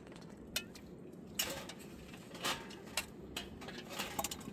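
Scattered clinks and knocks of dishes and utensils being handled, about half a dozen sharp separate hits.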